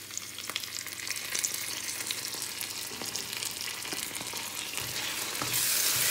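Onion, garlic and lemongrass frying in oil in a stainless steel wok, with sambal paste just added: a crackling sizzle. It grows louder near the end as the paste is spread and stirred in with a spoon.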